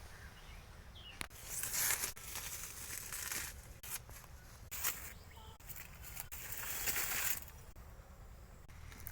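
Dry banana leaves rustling and tearing in several bursts of a second or so each, as they are stripped from a banana plant.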